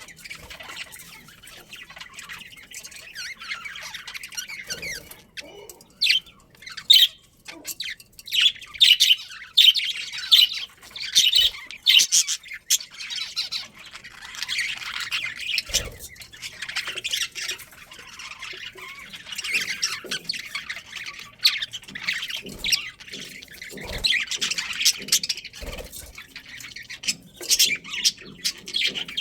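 A colony of budgerigars chirping and chattering: many short high calls overlapping, with louder sharp squawks now and then.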